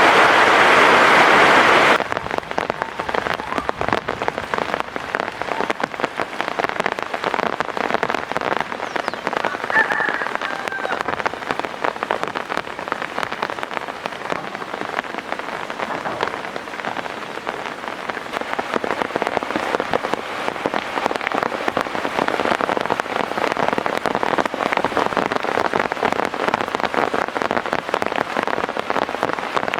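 Heavy rain falling: a dense steady hiss with countless drops pattering on surfaces. About two seconds in it drops abruptly to a quieter patter of more distinct drops.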